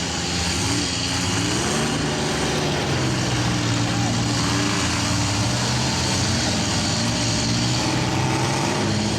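Engines of demolition-derby minivans, mini trucks and SUVs running and revving, several at once, with pitches rising and falling over a steady background din.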